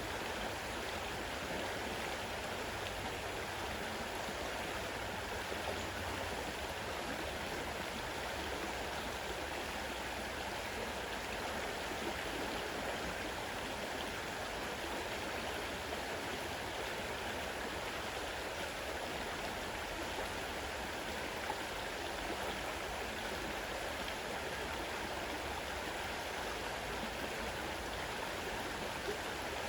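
Fast-running river water rushing steadily over stones, a constant even flow.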